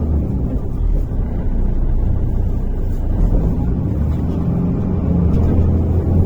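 Inside the passenger cabin of a MAZ-103 city bus, a steady low rumble from the engine and running gear.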